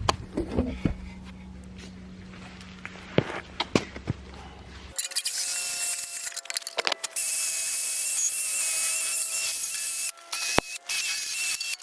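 Drill spinning a wire wheel against rusty metal: a loud, steady, high scouring hiss with a whine through it. It starts abruptly about five seconds in, after a few seconds of quieter clicks and knocks, and dips briefly twice.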